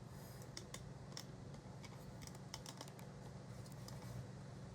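Microwave oven running with a steady low hum, with scattered, irregular small clicks over it.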